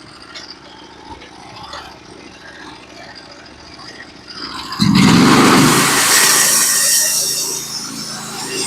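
Norwood HD36v2 portable band sawmill: a faint low idle at first, then about halfway through it comes up loud all at once as the engine is throttled up and the band blade runs into the log, a steady loud hissing saw cut.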